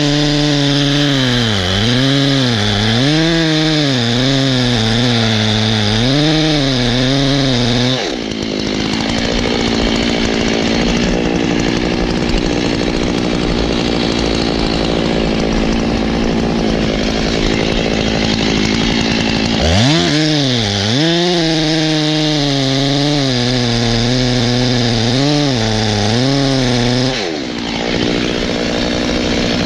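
Two-stroke chainsaw running at high revs while cutting wood, its pitch rising and falling about once a second as the bar loads and frees. For a long stretch in the middle the pitch holds steadier, then the swings return.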